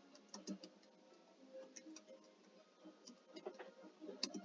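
Faint, irregular key clicks of a computer keyboard being typed on, a few keystrokes at a time, coming more thickly near the end.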